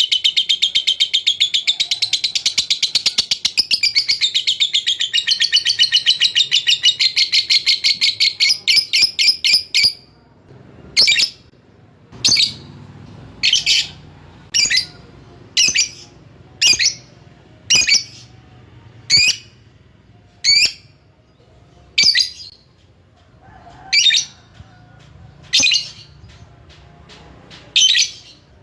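Lovebird's 'ngekek' call: a long, rapid, high chattering trill that stops about ten seconds in, followed by single short sharp chirps about every one and a half seconds.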